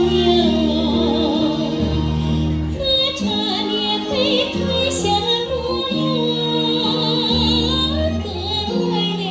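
A woman singing with vibrato over instrumental accompaniment, with held bass notes that change every second or two.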